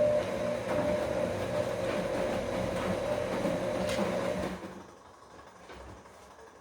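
Bosch Komfort-Klasse washing machine turning its drum during the wash, a steady motor hum and whine over the rumble of tumbling laundry and water. It stops about four and a half seconds in.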